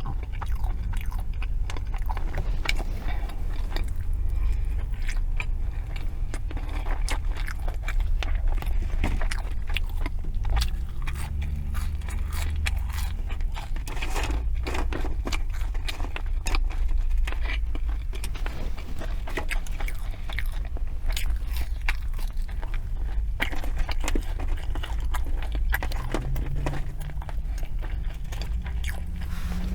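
Close-miked chewing of the last bite of a McDonald's McRib sandwich: soft wet mouth sounds and many small clicks, over a steady low hum.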